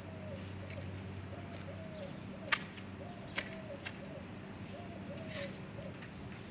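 A dove cooing over and over in short arched notes, with a few sharp snaps. The loudest snap comes about two and a half seconds in, and two smaller ones follow within the next second and a half.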